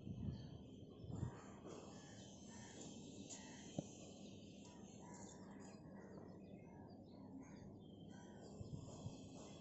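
Faint outdoor ambience with birds calling and chirping in the background, and a couple of soft low thumps in the first second or so.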